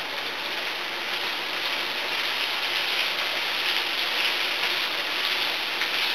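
Onion, eggplant and green pepper sizzling steadily in a frying pan as they are stirred with a spatula.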